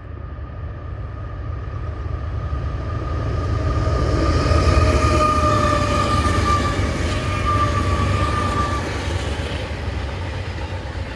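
CSX freight train's diesel locomotives passing: a low engine rumble that builds to its loudest about five seconds in and then eases, with a steady whine that falls slightly in pitch as they go by.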